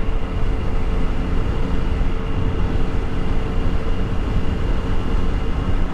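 Motorcycle cruising at an even, moderate speed: a steady engine hum mixed with wind rush on the rider's microphone.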